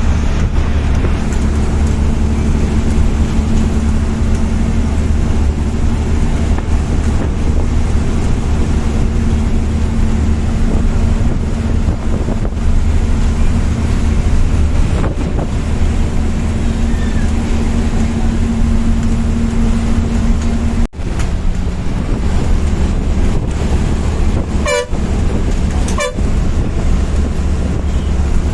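Bus engine and road noise heard from inside the moving bus, a steady low drone with a held hum that stops about two-thirds of the way through. Near the end, two short horn toots about a second apart.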